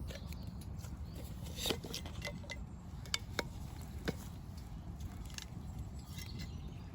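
Small wood fire crackling, with a few sharp snaps of burning twigs over a steady low rumble.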